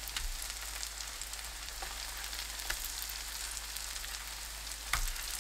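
Cabbage-tofu pancakes (baechu dubu-jeon) sizzling steadily in oil in a frying pan over medium-low heat, with scattered faint crackles and a light knock near the end.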